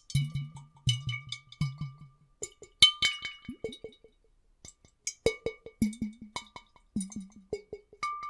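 Water sloshing and gulping in glass bottles, heard as irregular knocks each followed by short bubbly bloops that drop in pitch, under a faint steady high tone.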